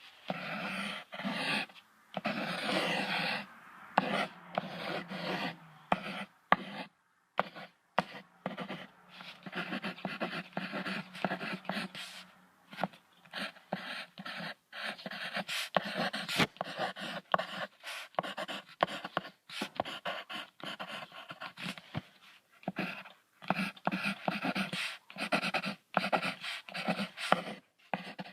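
An animal calling with many short, choppy sounds in quick succession, broken by brief pauses.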